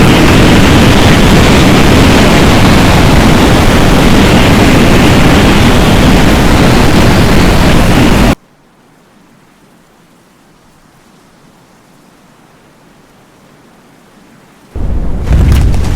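Loud, steady rushing of storm wind and rain overloading the microphone. About eight seconds in it cuts off suddenly to a faint hiss, and near the end the loud rush returns with a rapid crackle of hits.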